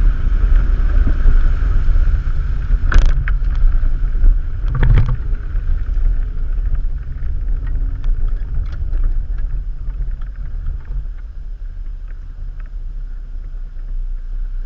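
Off-road SUV driving a rough dirt trail, heard from inside the cab: a steady low rumble of engine and tyres, with two sharp knocks about three and five seconds in and some lighter rattles. The rumble eases off in the second half.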